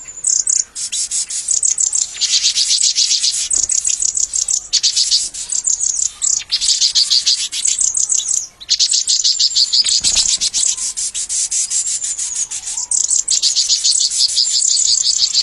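Small birds chirping: fast, high-pitched chirps repeated many times a second, in runs of a few seconds broken by short pauses.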